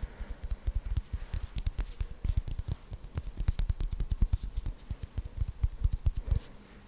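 Fast ASMR hand sounds close to a sensitive microphone: hands moving quickly, giving a rapid stream of soft low thumps and crackly skin clicks. It breaks off briefly near the end.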